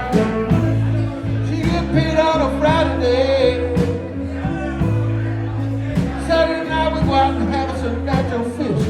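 Live band music: a low bass line holding steady notes, regular drum hits, and a wavering lead melody with bending notes on top.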